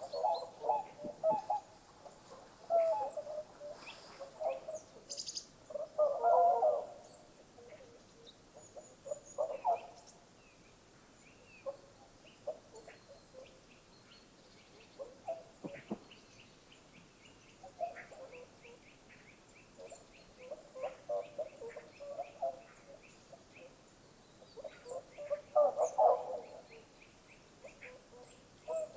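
Bird calls: scattered bursts of low, chattering calls, loudest about six seconds in and again near the end, over a faint fast run of high ticks.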